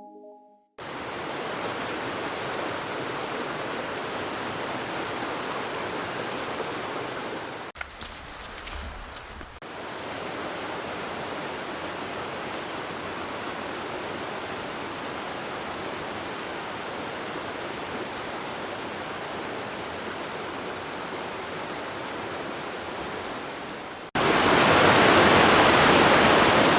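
Steady rush of flowing stream water in several edited takes: it dips briefly about eight seconds in and turns louder a couple of seconds before the end.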